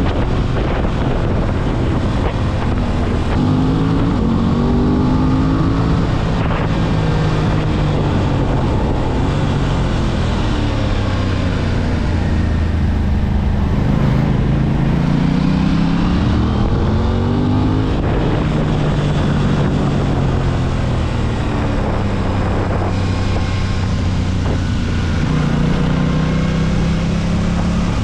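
Aprilia RS 660's parallel-twin engine under way. Its pitch climbs and drops again several times as the bike accelerates and slows through the bends, over a rush of wind noise.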